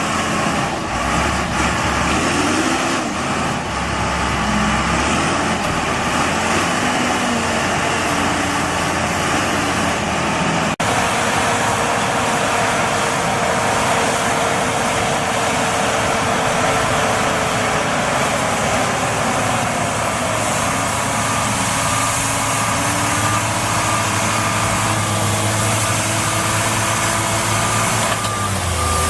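Tractor engine running hard and steadily, with a dense wash of mechanical and wheel noise. There is an abrupt cut about a third of the way in, after which the engine note slowly drops in pitch and then holds steady.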